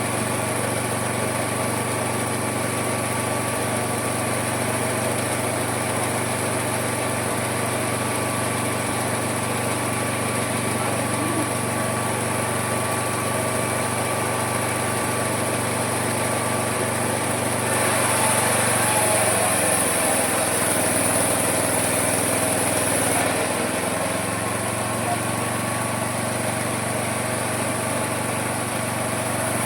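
Homemade mini sawmill running steadily. About 18 seconds in, a louder, hissier cut lasts roughly five seconds while the motor's pitch sags under the load, then it settles back to a steady run.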